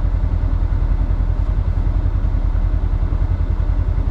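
Polaris Xpedition side-by-side's engine running steadily under way, a loud low rumble with a fast even pulse.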